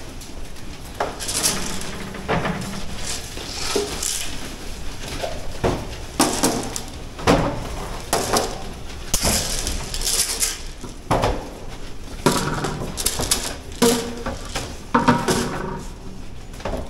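Pigs in a pen: irregular metal clanking and rattling, with a few short grunts and squeals in the second half.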